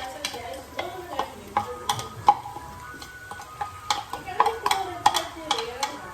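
Chopped onions frying in oil in a pot, stirred with a utensil that knocks and scrapes against the pot in many sharp, irregular clicks.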